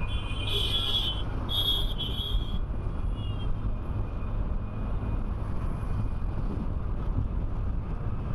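Motorcycle on the move in road traffic, recorded on a helmet camera: a steady low engine and wind rumble. Two short high-pitched beeps sound about half a second and a second and a half in, with a faint third one a little later.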